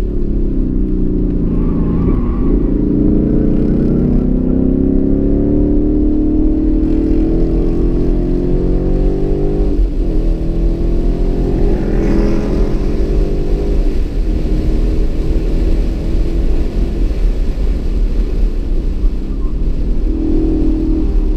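2015 Mustang GT's 5.0-litre V8 under hard throttle, its pitch climbing steadily for several seconds, then a gear change about ten seconds in, after which it runs on more evenly. Heard from inside the cabin.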